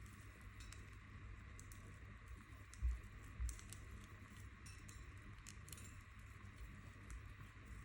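Faint scattered small clicks and ticks from budgies moving about their cage, with two dull low bumps about three seconds in.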